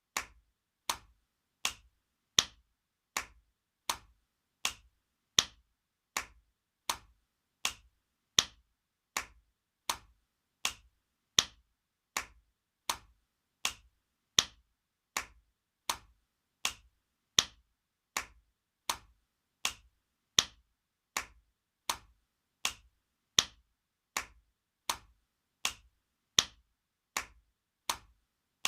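Spanking sound effect: sharp slaps of a hand on bare skin, repeating at an even pace of a little over one a second, some strikes a bit louder than others.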